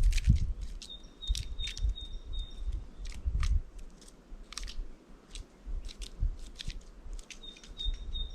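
Small birds at a seed feeder pecking and cracking seeds: a string of sharp irregular taps and clicks with low knocks, and twice a run of thin, high repeated call notes.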